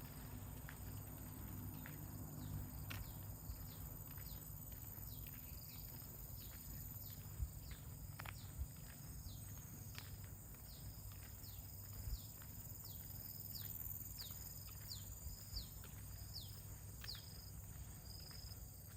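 Outdoor walking ambience: a steady high insect whine, a short falling chirp repeated about twice a second through the middle of the stretch, footsteps ticking on the path, and a low rumble of wind on the microphone.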